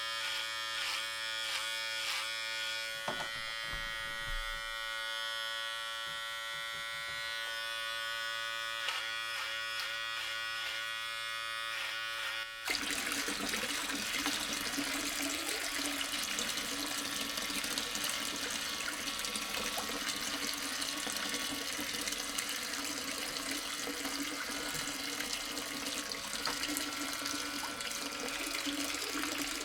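Small electric motor of a mini DIY water pump running with a steady whine. About thirteen seconds in it changes abruptly to a steady rush of flowing, splashing water over the motor's hum as the pump delivers water.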